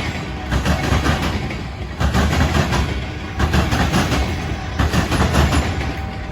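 Norfolk Southern freight train rolling past close by, its wheels clattering over the rail joints with a low rumble, the clatter swelling in a rhythm about every second and a half.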